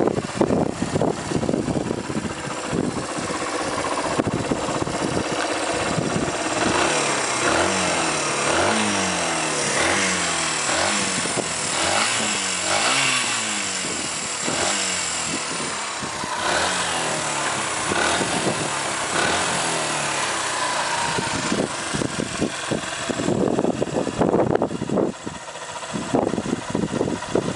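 2003 Suzuki RV125 Van Van's single-cylinder four-stroke engine under way, its pitch climbing and dropping back again and again as it revs up and shifts through the gears. Near the start and the end it runs rougher and lower, without the climbing pitch.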